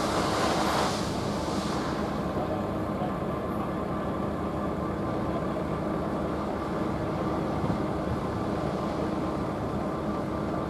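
Long freight train of open wagons rolling past: a steady rumble of wagon wheels on the rails. It is a little louder for the first couple of seconds, then even.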